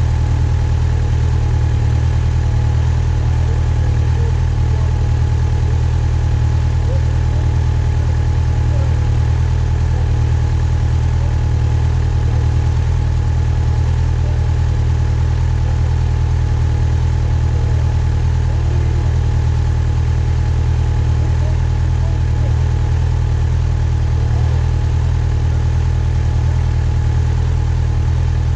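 Yamaha FZ6R's inline-four engine running steadily, its pitch holding level with no revving.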